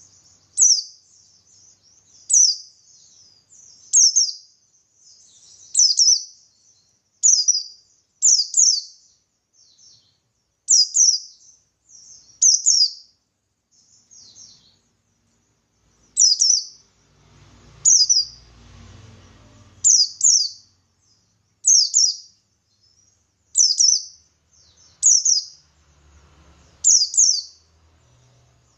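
Pleci buxtoni white-eye singing in short, high, falling chirp phrases, repeated every second or two, some in quick pairs. This is the wild-style 'ngalas' chatter that bird keepers play to set other white-eyes singing.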